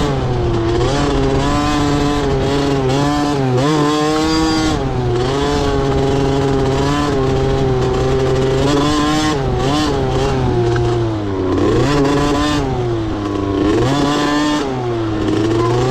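Motocross dirt bike engine running hard, its pitch rising and falling again and again as the throttle is opened and closed.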